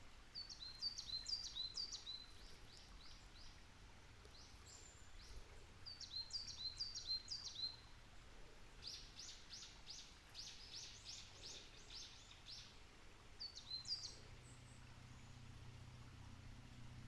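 Coal tit singing: high, quick phrases of repeated notes, several short bursts and one longer run of notes in the middle.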